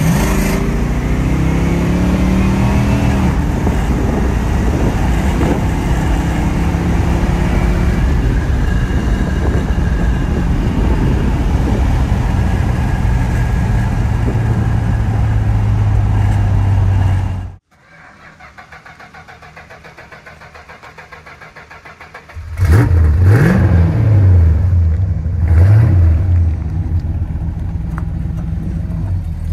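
1972 Chrysler New Yorker's 440 cubic-inch (7.2 litre) V8 pulling hard as the car accelerates, then running steadily at cruise, heard from inside the cabin. After a sudden cut the engine is heard idling from outside the car, is revved in a few quick blips through its dual exhaust without an H-pipe about two-thirds of the way in, and settles back to idle.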